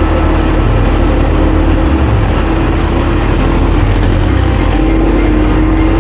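ATV engine running steadily while the quad is under way, its pitch shifting slightly now and then, with a constant noisy rush over it.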